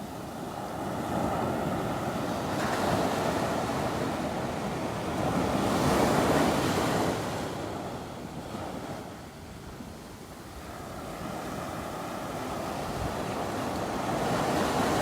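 Ocean surf breaking on a beach, the wash swelling and fading in waves, loudest about six seconds in and rising again near the end, with wind buffeting the microphone.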